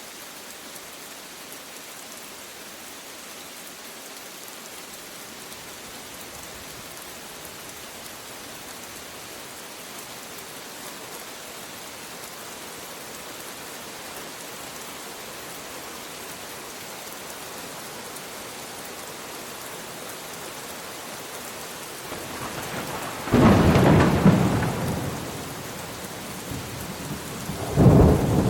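Steady rain hissing, then a loud thunderclap near the end that rumbles for a few seconds, and a second crack of thunder just as it fades.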